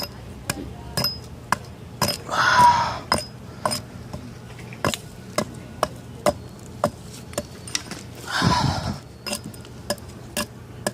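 Hatchet chopping into a log that is rotten on the outside, in quick light strikes at about two a second. Two longer rasping sounds come about two seconds in and again near the end.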